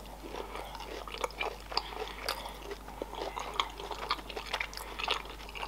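A person chewing a mouthful of sushi roll close to the microphone, with many short, uneven clicks of the mouth and food.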